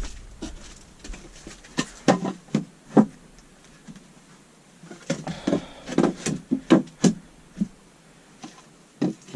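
Pieces of wood knocking and thudding as they are handled and set down, in irregular clusters of knocks with quiet gaps between.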